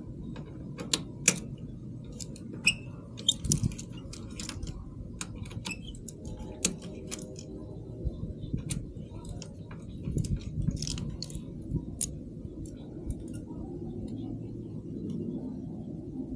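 Irregular sharp metallic clicks and clinks of tools and metal parts being handled, over a low steady hum, while a broken motorcycle foot peg is taken off for repair.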